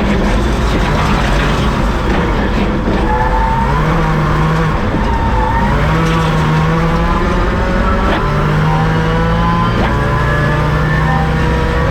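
Subaru WRX rallycross car's turbocharged flat-four engine running hard on a dirt stage, loud and continuous. Its pitch steps up and down every second or so as the driver works through the gears.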